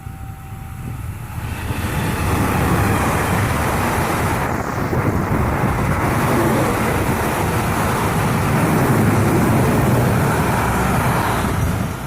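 A train rolling past at speed: a loud, steady rumble and clatter of wheels and cars that swells over the first two seconds, holds for about ten seconds, then drops away near the end.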